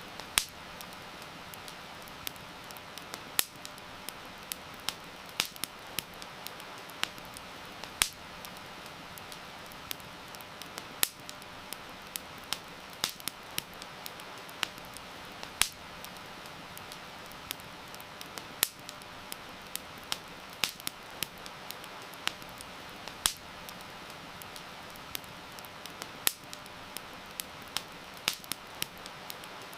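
Wood campfire crackling, with irregular sharp pops and snaps, a few loud ones standing out, over a steady hiss of heavy rain.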